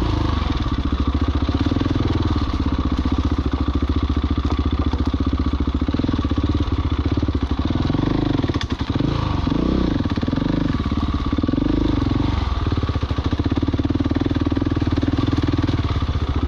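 Husqvarna 701 Enduro's big single-cylinder four-stroke engine running under way off-road. The note rises and falls with the throttle, with a brief dip about nine seconds in.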